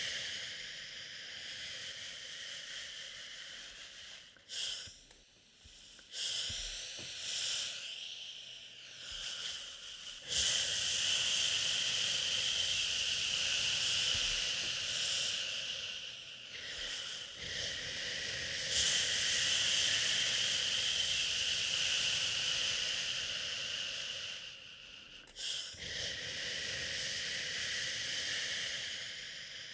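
Long, drawn-out 'shhh' shushing hiss for soothing a baby, broken by a few short pauses of a second or so.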